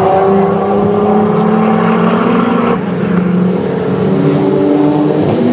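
Sports car engine accelerating hard past and away down the straight. Its pitch climbs steadily, drops suddenly at an upshift about three seconds in, then climbs again.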